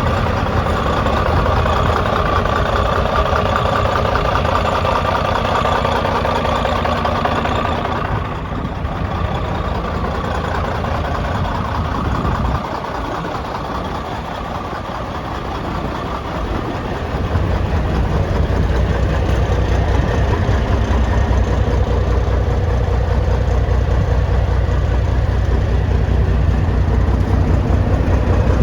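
1996 Freightliner's Cummins N14 diesel engine idling steadily. Its sound changes about a third of the way in and dips in the low end, then comes back fuller and deeper for the second half.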